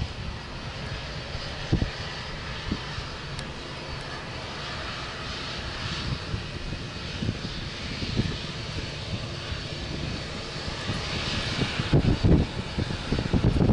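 Airbus A320 jet engines running as the airliner passes, a steady rushing noise with a high hiss. Wind buffets the microphone near the end.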